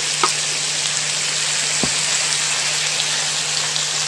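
Pork, green chili and broccoli stir-frying in a wok: a steady hiss of sizzling as broccoli florets go in and are stirred with a wooden spoon, with two brief knocks, one just after the start and one about two seconds in.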